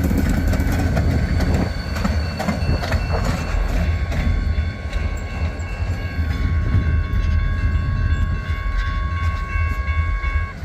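Great Lakes Central locomotives on a light power move rolling past: a heavy low rumble with a thin, steady high-pitched wheel squeal held through most of it.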